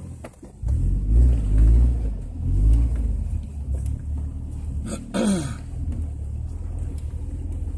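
Off-road vehicle's engine revving and rumbling under load on a rough, muddy trail, with heavy surges in the first few seconds. A short falling sound about five seconds in, then a steadier rumble.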